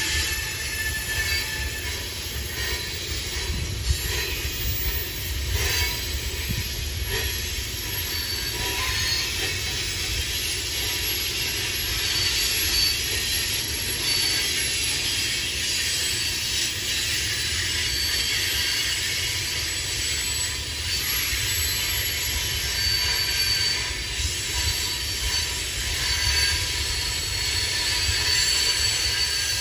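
Long string of BNSF coal cars rolling steadily past, a continuous low rumble of wheels on rail with thin high wheel squeal over it and a few scattered clicks near the start.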